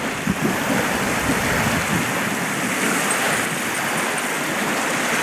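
Waves washing onto a lake shore, a steady rushing with some wind.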